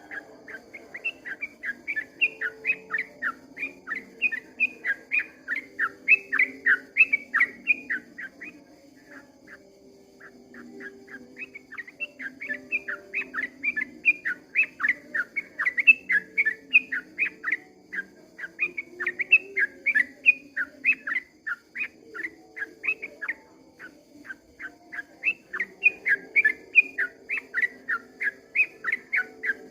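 Yellow-vented bulbul (trucukan) singing long, fast rolling runs of short chattering notes, several a second, with a pause of about two seconds near a third of the way through.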